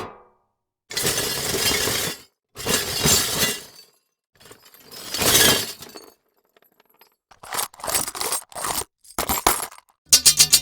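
A series of separate glass breaking and shattering effects, each about a second long with short silences between them, followed by several shorter crashes in quick succession. Just before the end, a fast rhythmic rattle with a low hum begins.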